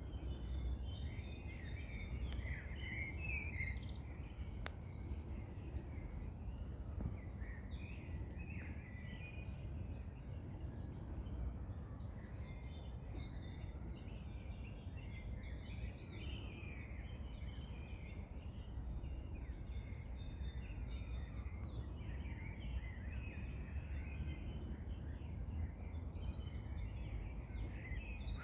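Several small birds chirping and singing outdoors, with overlapping calls throughout, over a steady low rumble of outdoor background noise.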